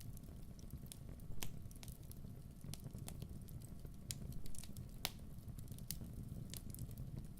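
Wood fire burning with a steady low rumble and irregular sharp crackles and pops, a louder pop about five seconds in.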